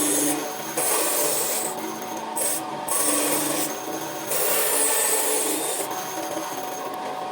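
A tool scraping and rasping against wood in repeated back-and-forth strokes, each about a second long.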